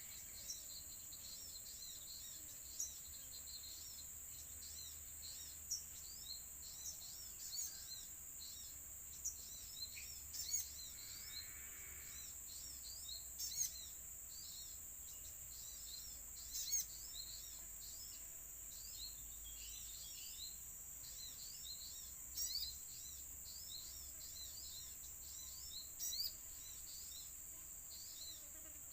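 Small birds calling in a rapid run of short, high chirps, several a second, with a louder call now and then. Under them runs a steady, high-pitched insect drone.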